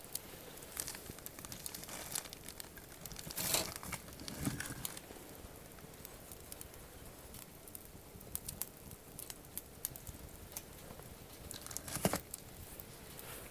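Wood campfire crackling, with scattered small pops and two louder bursts of crackle, about three and a half seconds in and near the end.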